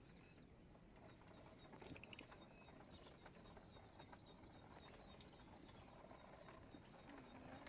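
Near silence: faint outdoor ambience with a thin, steady high-pitched whine that pulses at an even slow rhythm.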